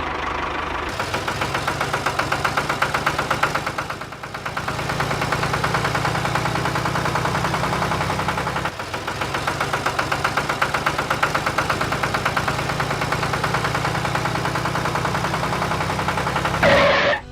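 Small engine of a DIY mini tractor running steadily with a fast, even chugging pulse, dipping briefly about four seconds in.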